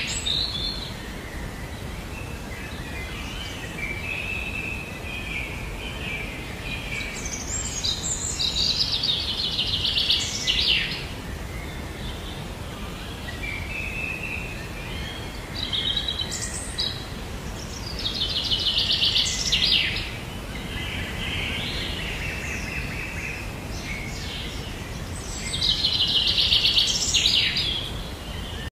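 Songbird singing: trilled, chirping phrases that recur every several seconds over a steady background of outdoor noise.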